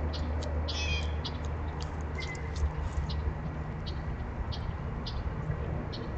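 Short, sharp chips from small birds scattered throughout, with one brief higher call about a second in, over a steady low hum.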